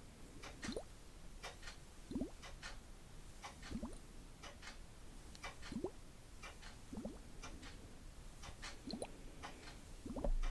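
Water dripping: short plops that rise in pitch, about one every second and a half, amid light crisp clicks.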